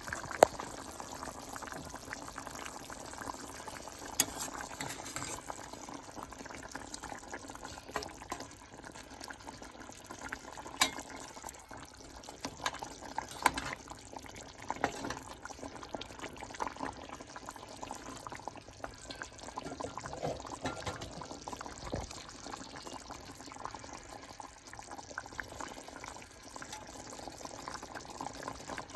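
Chicken livers cooking in a pan: a steady bubbling of liquid, broken by scattered sharp pops.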